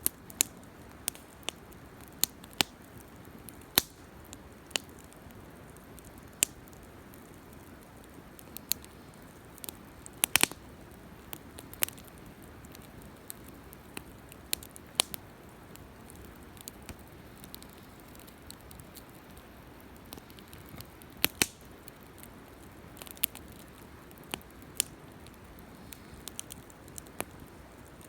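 Wood campfire crackling: irregular sharp pops and snaps over a steady low hiss, with a few louder pops about ten seconds in and again past the twenty-second mark.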